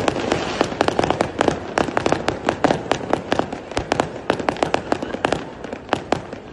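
Fireworks crackling: a rapid, irregular run of sharp pops, several a second, over a crackling haze, thinning a little toward the end.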